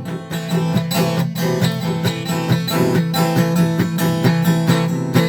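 Strummed acoustic guitar playing an instrumental passage between sung lines of a country song.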